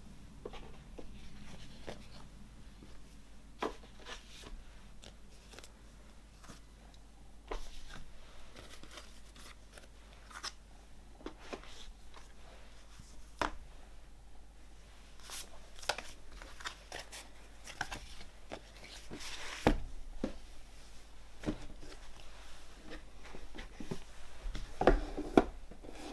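Hands handling the packaging and contents of a CD box set: scattered light clicks, taps and rustles of card and plastic, with a few louder knocks near the end.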